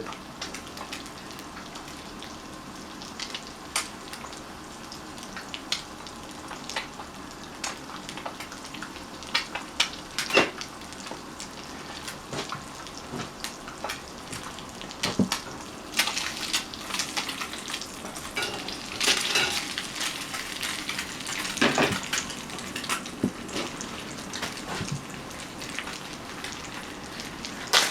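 An egg frying in a pan, sizzling steadily, with scattered clicks and scrapes of a utensil working it.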